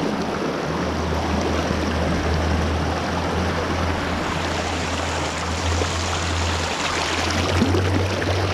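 Rapid creek water rushing steadily over rocks: a full, even water noise with a steady low rumble underneath.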